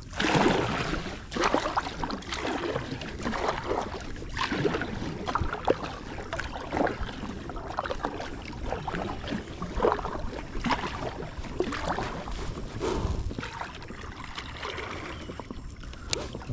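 Water splashing and lapping against a small inflatable packraft, with repeated strokes roughly once a second.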